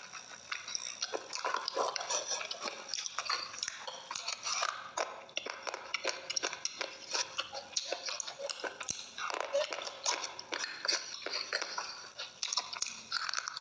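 Close-miked crunching and chewing of brittle, chalky pieces: a dense run of sharp, irregular crackles. Near the end, fingers scrape and crumble the powdery material in a bowl.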